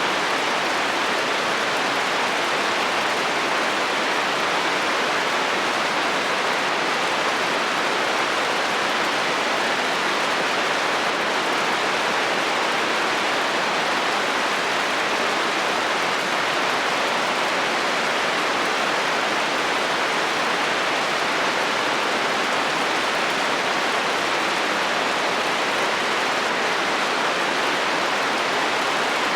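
Heavy rain falling steadily on a metal roof, an even hiss of drops with no thunder and no change in strength.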